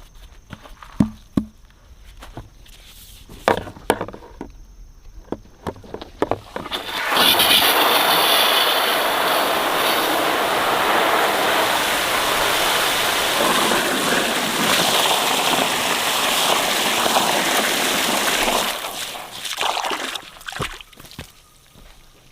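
A few scattered knocks and clicks, then about seven seconds in a loud, steady rush of water starts, running for about twelve seconds before tapering off, followed by a few more knocks.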